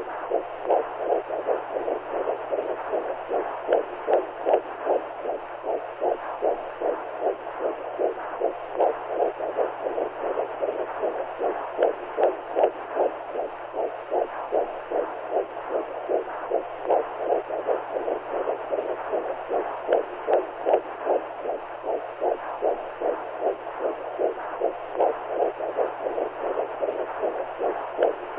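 Womb-sound white noise: a muffled, continuous whooshing with a steady, evenly repeating heartbeat-like pulse.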